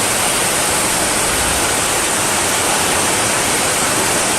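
Steady, loud rush of water, a dense even noise without distinct drops or splashes, as from a torrential downpour or floodwater pouring through.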